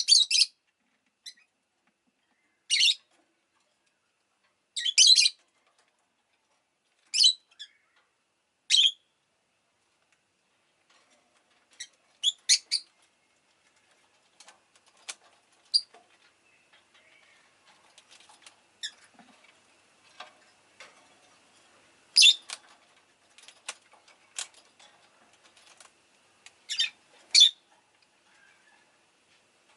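Rosy-faced lovebird giving short, sharp, high chirps, one every second or two, then falling mostly quiet. In the second half, faint irregular clicks and taps come between a few more loud chirps.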